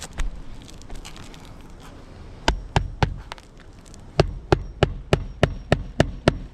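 Hand hammer blows, about a dozen sharp strikes at roughly three a second: four, a short pause, then a steady run of eight, as when nails are driven into a roofing shingle.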